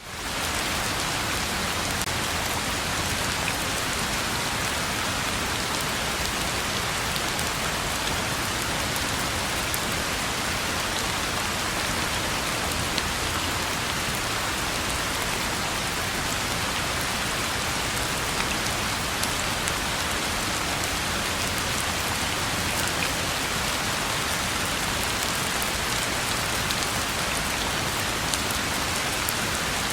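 Steady rain falling on a road: a dense, even hiss with scattered individual drops ticking through it.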